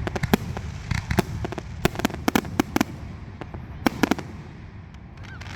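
Aerial fireworks in a finale barrage: a rapid volley of sharp shell reports and bangs for about three seconds, a last pair of reports around four seconds in, then the volley tails off.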